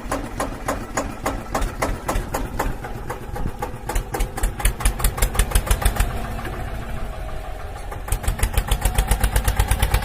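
Small single-cylinder engine of a homemade mini tractor chugging at low speed in evenly spaced beats, the beats quickening over the last few seconds.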